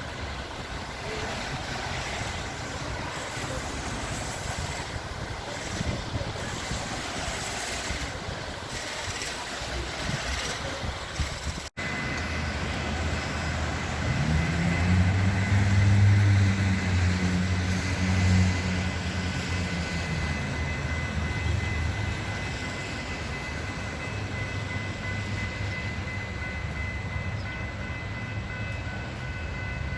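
Steady outdoor rain-and-traffic noise, then an abrupt cut about twelve seconds in to a Metra commuter train's diesel locomotive. The engine rumbles, grows louder for a few seconds and then settles, with a steady high whine over it.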